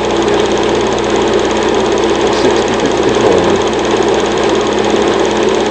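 Film projector running: a steady motor whirr with a fast, even mechanical clatter from the film transport.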